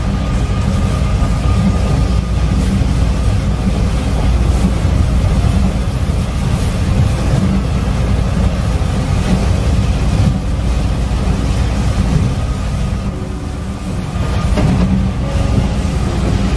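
Passenger trains running at speed on parallel tracks: a steady loud rumble of wheels on rails, with a faint steady tone above it. The rumble eases briefly about thirteen seconds in, then returns.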